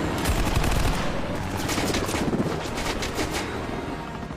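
Rapid bursts of automatic gunfire over continuous helicopter noise, in a film action-scene sound mix. The shots are densest in the middle and thin out toward the end.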